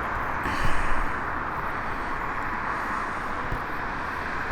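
Steady distant vehicle noise, an even rumble and hiss, with a brief louder swell about half a second in.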